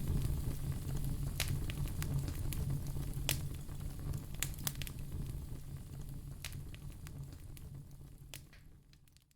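Wood fire in a fireplace crackling, with sharp pops every second or so over a steady low rumble. It fades out near the end.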